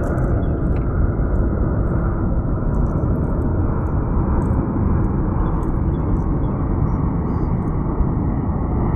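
Wind buffeting the microphone: a steady, loud, low rumbling roar, with a few faint light ticks over it.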